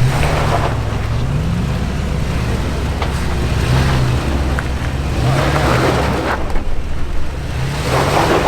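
Off-road 4x4 engine revving up and down in short pulls while crawling a rocky obstacle, with swells of rushing noise in between.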